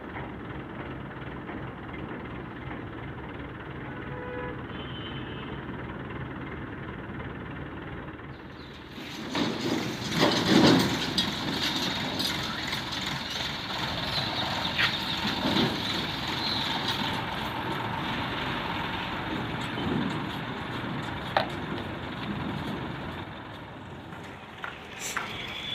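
Heavy diesel machinery, backhoe loaders and a truck, running steadily, with louder engine surges and knocks around ten seconds in.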